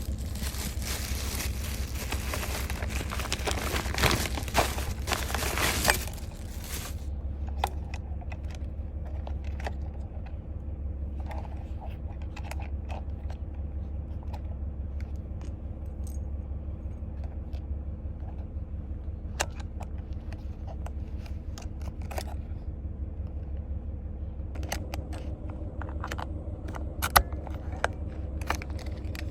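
Handling noises: loud rustling for the first six seconds or so, then scattered sharp clicks and taps, thickest near the end, over a steady low rumble.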